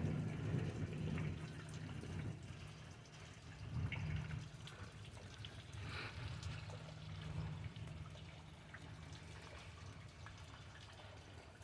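Rain dripping and trickling after a thunderstorm, with a low rumble of thunder dying away at the start and faint low rumbles again about four and seven seconds in.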